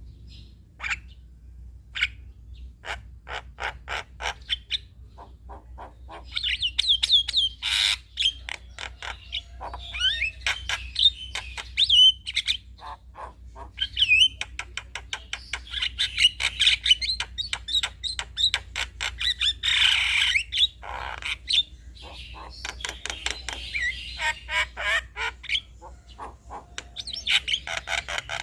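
Male Javan myna (jalak kebo) singing: a long string of sharp clicks and ticks mixed with whistled, warbling phrases and harsh chattering bouts.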